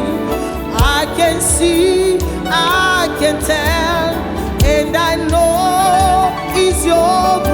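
Gospel praise band playing, with singers holding long, wavering notes over a steady drum beat.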